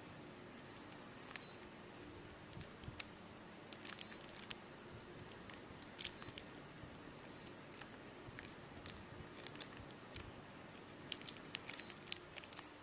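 Faint clicks with short, high electronic beeps, about five times, spread unevenly: buttons being pressed on the dehumidifier's control panel. Other light clicks and handling sounds fall between them.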